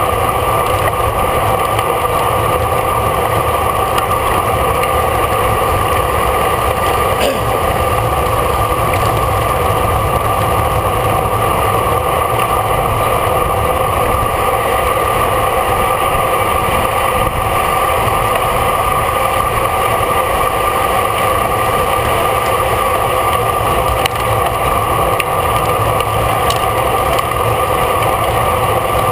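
Steady rush and hum of a racing bicycle at speed, heard from a camera on the bike: wind over the microphone with tyre and drivetrain noise, unbroken throughout.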